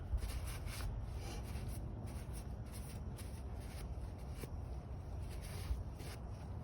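Irregular rubbing and scuffing handling noises over a low steady rumble.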